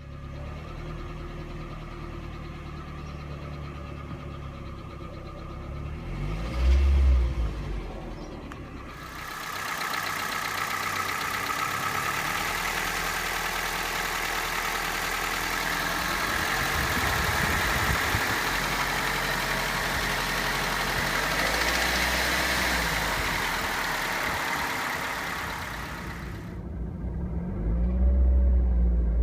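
Toyota 1NZ-FE 1.5-litre four-cylinder engine running. A steady low hum is broken by a loud low thump about seven seconds in. A much louder, hissing stretch runs from about nine seconds until it stops abruptly near the end, with the engine's pitch rising and falling in places.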